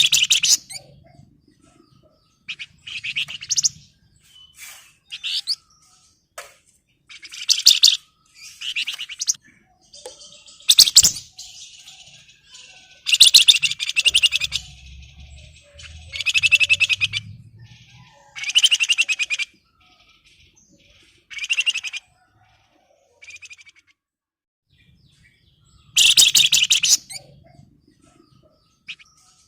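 Flamboyan (Javan fulvetta) singing in short bursts of rapid, high-pitched chattering trills, about a dozen with brief pauses between. This is the excited, fast song of a bird in breeding condition calling out a rival.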